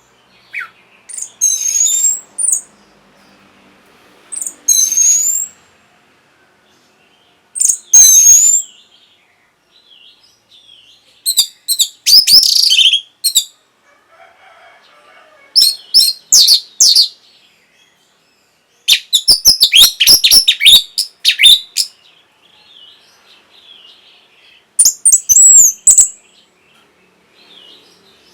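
Orange-headed thrush singing: loud, high-pitched, varied song phrases of a second or two each, separated by pauses of a few seconds.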